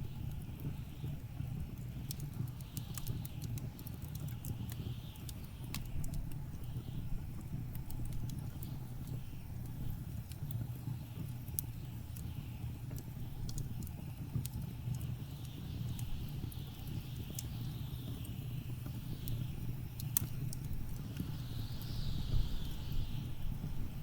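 A wood fire crackling, with scattered sharp pops over a steady low rumble, while blizzard wind gusts in rising and falling swells.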